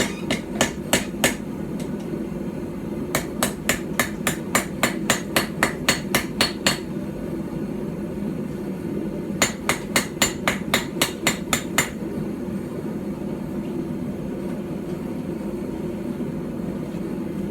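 Small hand-forged hammer, about 12 ounces, striking a knife blank on a small stump anvil in three quick runs of blows, about four a second. The last run ends about twelve seconds in, leaving only a steady low rushing noise.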